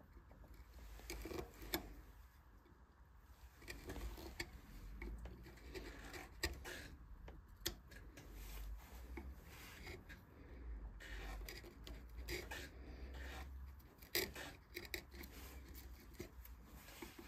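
Wood being carved by hand: irregular short scraping and cutting strokes with a few sharp clicks, no motor.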